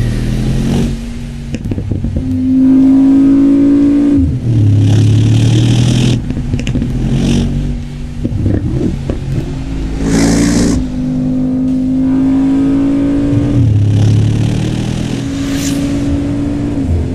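Mercedes-AMG G63's twin-turbo V8 through a KLINE valved aftermarket exhaust, revved up and held several times for a couple of seconds each, with short noisy bursts as the revs drop between them.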